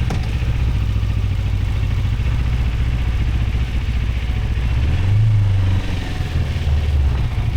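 Moto Morini X-Cape 650's parallel-twin engine running steadily, its pitch rising briefly about five seconds in and then settling back.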